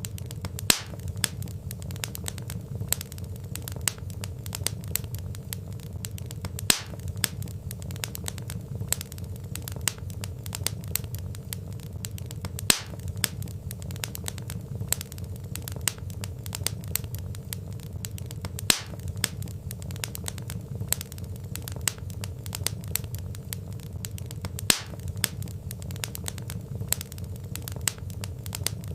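Wood fire crackling: a dense run of small snaps and ticks over a low steady rumble of burning logs, with a louder single pop about every six seconds.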